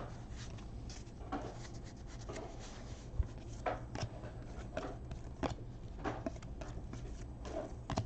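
Trading cards being handled and slid over one another, with short, soft scratchy flicks about once a second.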